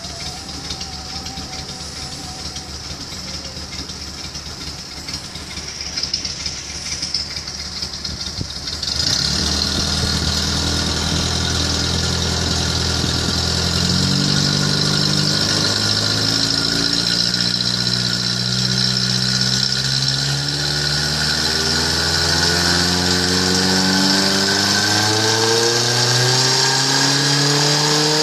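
Suzuki Carry's exhaust with the engine idling steadily. About nine seconds in it gets suddenly louder, and the engine is then revved up and down several times.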